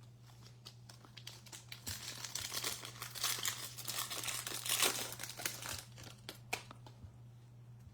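Wrapper of a trading-card pack being torn open and crinkled by hand: a dense, crackling run of rustles lasting several seconds, over a steady low hum.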